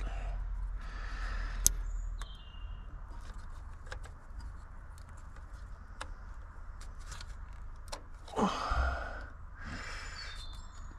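Scattered light clicks and knocks of hand tools and metal parts being worked on a car engine, with a short breathy exhale of effort about eight and a half seconds in.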